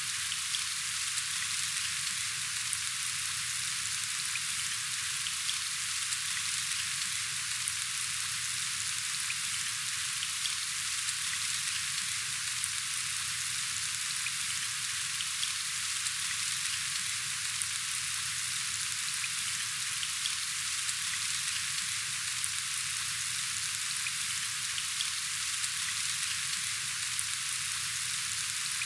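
Steady rain falling: an even hiss sprinkled with fine, scattered drop ticks.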